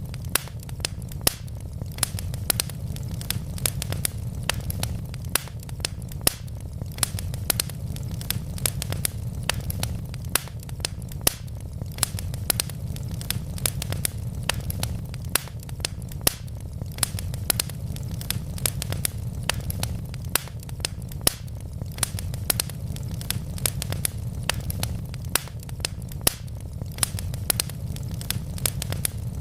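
Wood fire burning in a fireplace: many sharp crackles and pops, several a second, over a steady low rumble of the flames.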